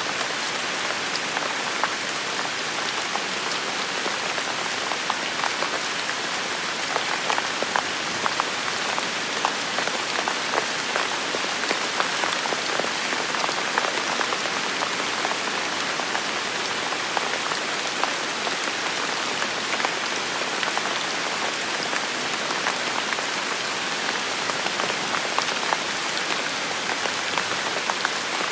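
Heavy rain falling steadily: a dense, even hiss with a constant scatter of sharp ticks from individual drops landing close by.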